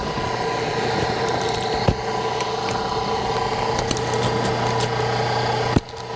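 Hydraulic log splitter running with a steady drone from its motor and pump, with a sharp crack about two seconds in and another near the end, as wood splits under the ram.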